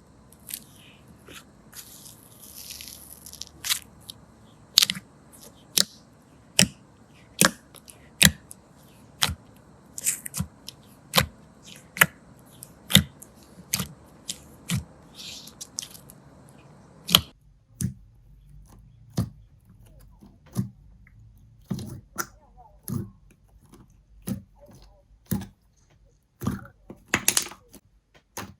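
Slime being squeezed and pressed by hand, giving sharp crackling pops about once a second. About 17 seconds in, the pops turn quicker and softer.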